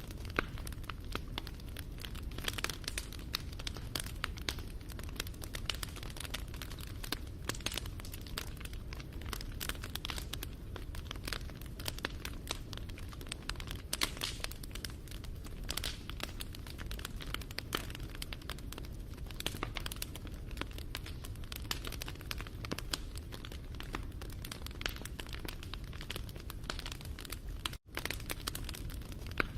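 Wood fire crackling, with dense irregular pops and snaps over a steady low rumble. The sound cuts out for an instant about two seconds before the end.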